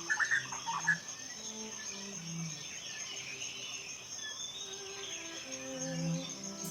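Steady high insect chirring, with a quick flurry of bird chirps in the first second, over soft ambient music of slow, sustained low notes.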